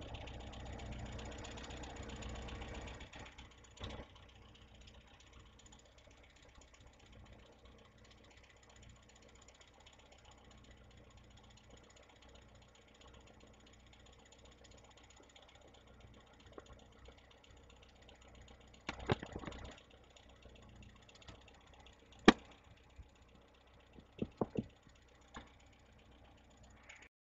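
Low background noise with scattered sharp clicks and knocks: one about four seconds in, a short cluster a little past two-thirds through, the loudest single knock soon after, and a quick run of clicks near the end.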